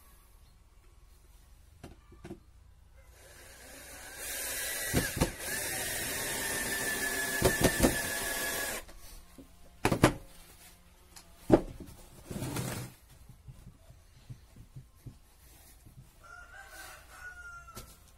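A power tool runs for about five seconds with a steady whine, driving into pallet wood during hive assembly. Then come a few sharp knocks on the wood, and a rooster crows faintly near the end.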